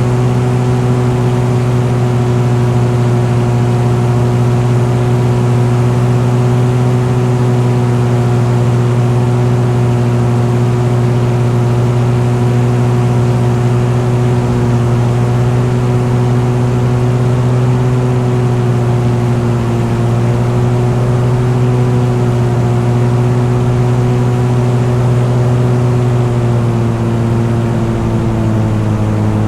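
An engine running at a steady cruising speed, with a constant pitch that eases down slightly near the end.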